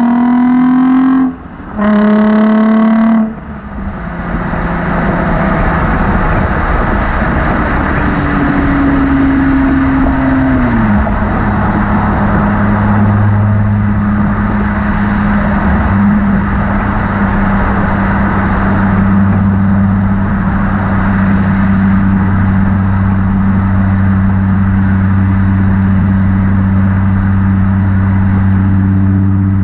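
Nissan 350Z's V6 through a Motordyne exhaust accelerating hard, rising in pitch, dipping briefly for a gear change and pulling again before lifting off about three seconds in. It then drones at steady revs under road and wind noise, its pitch dropping once about a third of the way through.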